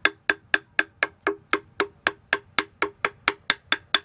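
Rapid, even tapping: about four sharp knocks a second, each with a short ringing tone.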